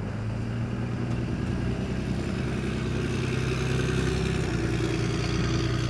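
Motor vehicle engine running steadily, growing louder over a few seconds and then easing off slightly, like a vehicle moving past.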